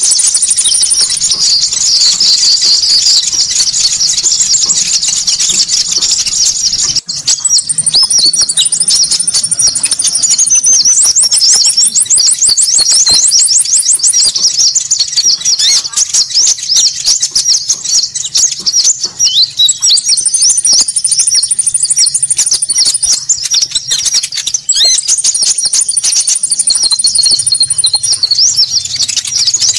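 Busy, overlapping chattering calls of konin birds, played as a bird-trapping lure recording. A thin, very high trill recurs every few seconds over the dense chatter, and there is a brief break about seven seconds in.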